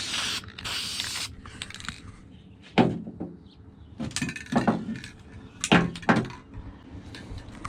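Objects being handled: a short burst of rustling, then several separate knocks and clunks as things are picked up and set down.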